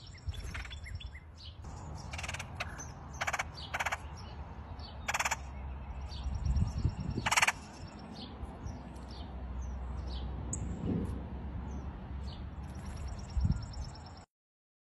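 Several short, harsh, raspy bird calls, the loudest about seven seconds in, over faint high-pitched songbirds in the background.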